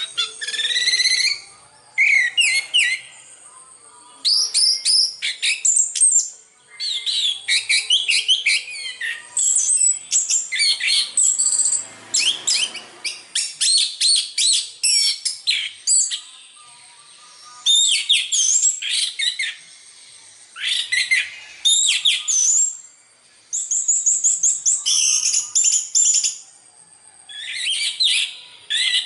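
Orange-headed thrush (anis merah) singing: a varied, rapid song of whistled notes and trills, delivered in bursts of a second or more with short pauses between them.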